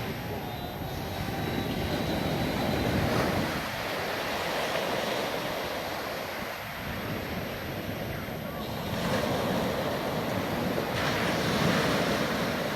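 Sea waves washing onto a sandy beach, a steady rush of surf that swells louder a couple of seconds in and again near the end.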